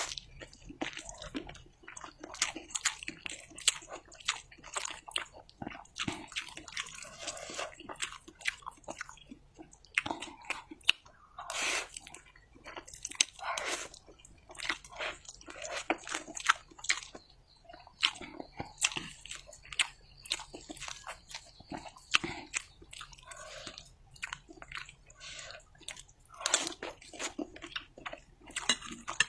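A person eating mi goreng with fried egg and chilies close to the microphone: steady chewing with many short, crisp crunching bites and wet mouth clicks.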